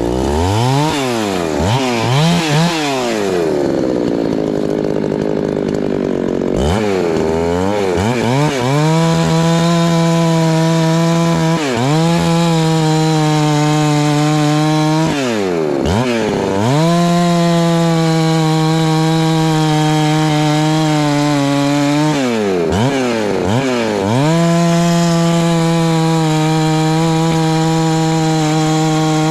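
An 88 cc two-stroke Husqvarna 390 XP chainsaw is blipped up and down a few times, then held at high revs under load for long stretches while bucking Douglas fir rounds. The revs sag and recover briefly three times during the cutting.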